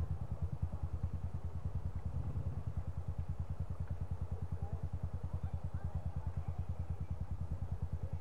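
Dirt bike engine idling close by: a steady, low, even putter of about nine beats a second.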